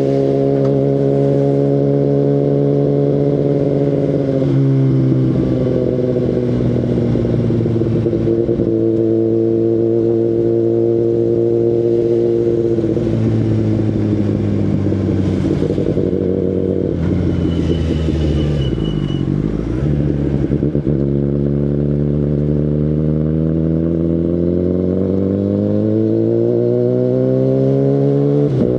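A 2019 Kawasaki Ninja ZX-10RR's inline-four engine running through an Akrapovic Evolution full exhaust while riding. It holds steady revs, drops twice as the throttle is closed, and slows to low revs near the middle. It then revs rise steadily for several seconds as the bike pulls away.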